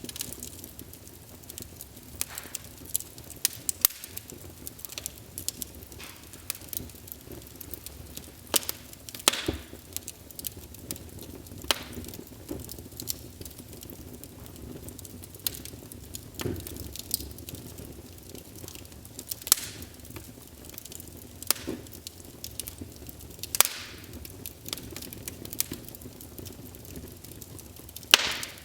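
Wood fire in a fireplace crackling, with irregular sharp pops and snaps over a low steady hiss, a few pops louder than the rest.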